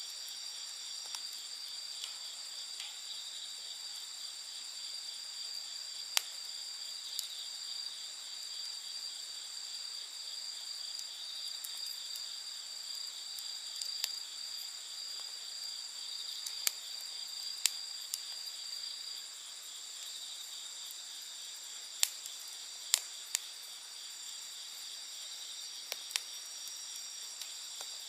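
A steady high-pitched chorus of night insects, with one of its voices stopping about two-thirds of the way through. A campfire pops and crackles now and then over it, about ten sharp snaps spread across the stretch.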